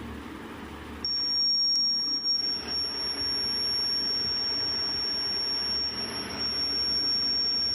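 Buzzer of a homemade rain detector alarm sounding one steady, high-pitched tone that switches on about a second in and holds without a break, the alarm set off by water on its sensor.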